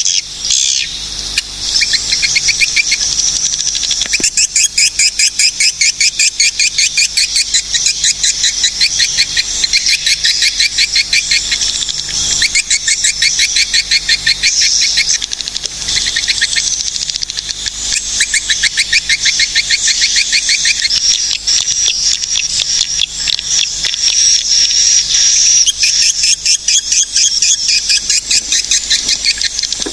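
Swiftlets calling: a continuous, loud chatter of rapid, high-pitched chirps repeated many times a second, the sound played as a swiftlet lure call.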